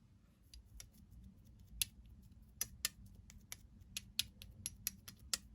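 Shaving foam being mixed, giving an irregular run of crisp clicks and small pops.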